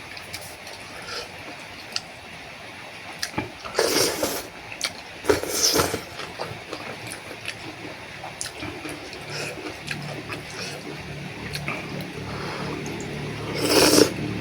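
A person slurping boat noodle soup with its thick broth, with loud slurps about four seconds in, again around five and a half to six seconds, and near the end. Short clicks fall between the slurps.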